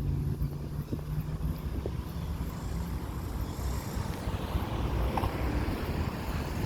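Garbage truck driving by: a steady low engine hum for the first few seconds, then a growing rush of road and engine noise.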